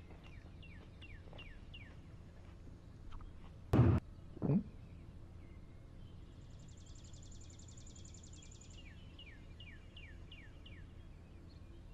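Faint background of small birds chirping, with repeated quick downward chirps and a fast trill in the middle. About four seconds in comes one loud short crunch, the loudest sound here, as a cartoon chewing sound effect, then a brief falling sound like a gulp.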